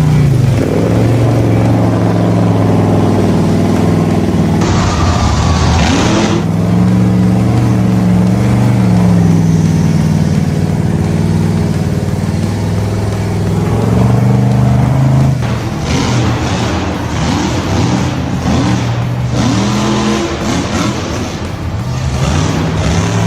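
A vehicle engine running and revving, its pitch rising and falling several times.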